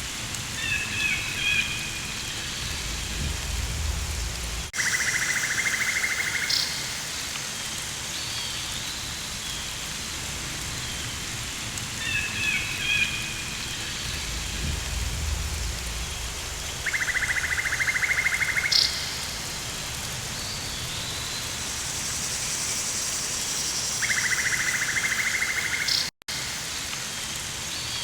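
Rainforest ambience of steady rain hiss, with a bird's warbling call twice, three stretches of a buzzing trill and two low rumbles; the same pattern comes round about every 11 or 12 seconds, and the sound cuts out for an instant near the end.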